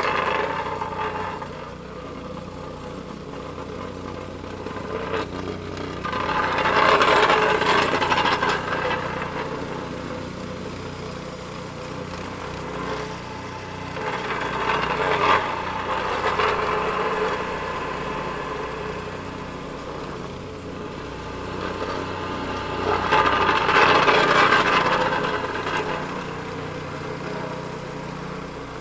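Plate compactor's engine sound, electronically transformed: a steady low hum under a brighter layer that swells up and fades back about every eight seconds.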